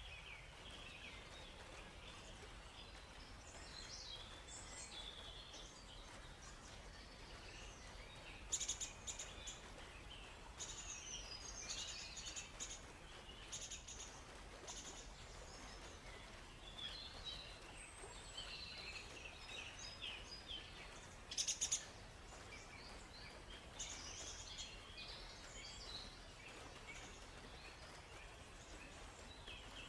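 Many small songbirds chirping and calling on and off in forest ambience, over a faint steady background hiss. Twice, about nine and twenty-one seconds in, a short rapid rattle of clicks stands out as the loudest sound.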